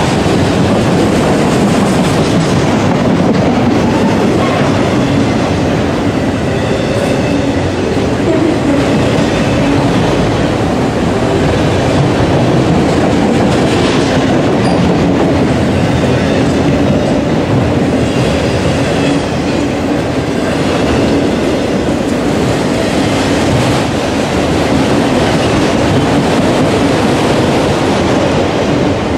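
Autorack cars of a long freight train rolling past close by: a loud, steady noise of steel wheels running on the rails.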